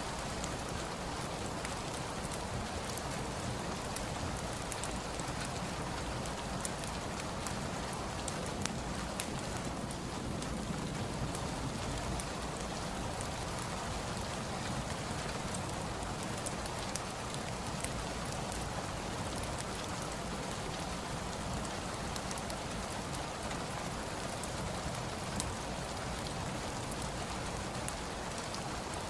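Steady rain falling, with scattered faint sharp ticks throughout.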